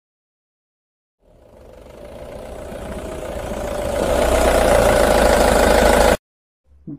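Motor vehicle engine sound effect that fades in about a second in, grows steadily louder, runs evenly, and cuts off abruptly near the end.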